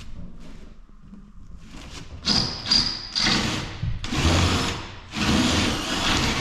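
Power drill drilling out a part in three bursts, the first with a high whine, cutting only far enough to knock the top off.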